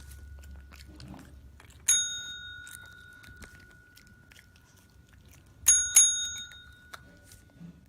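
A small bell rung: one ring about two seconds in, then two quick rings near six seconds, each ringing on and fading slowly, over a faint low hum.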